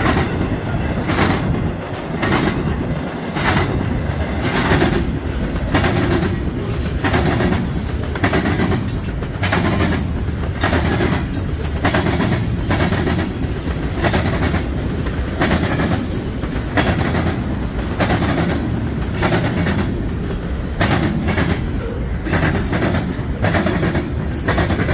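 Mixed freight train's cars rolling past close by, a loud rumble with repeated clacks of wheels over the rail joints, one or two a second.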